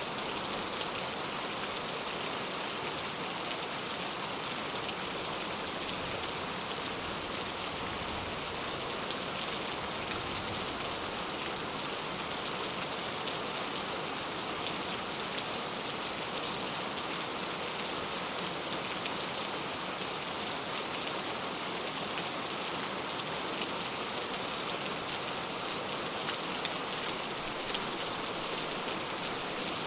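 Steady rain falling, an even hiss of many small drop ticks with no let-up or change.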